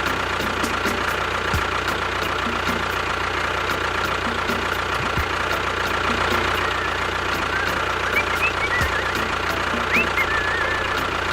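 A model construction machine's small engine running steadily with a regular light ticking, about three ticks a second. A few short high chirps come in near the end.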